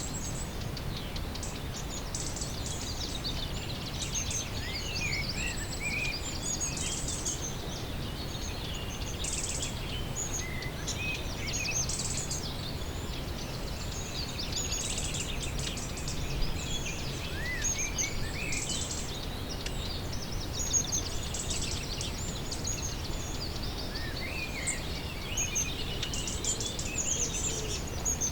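Several songbirds singing and calling over a steady low background rumble: many short chirps and rapid trills, with a few upswept whistled notes.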